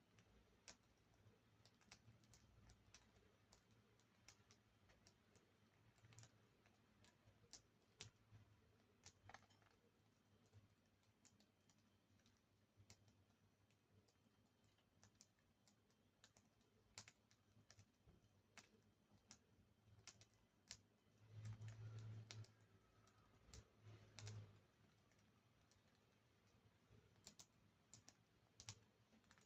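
Budgerigars cracking and husking seed: faint, irregular small clicks from their beaks, with a couple of dull low bumps about two-thirds of the way through.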